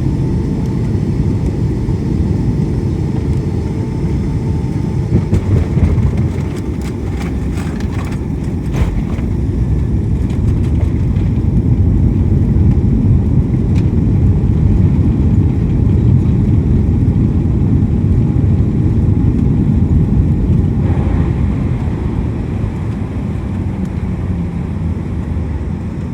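Cabin noise of a Boeing 757-200 landing: a loud, steady low rumble with a cluster of knocks about six to nine seconds in. The rumble then swells for several seconds and eases off toward the end.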